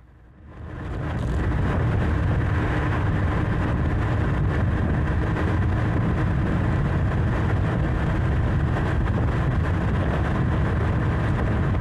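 Motorcycle on the move: a steady rush of engine and road noise that fades in over the first second or two and then holds level.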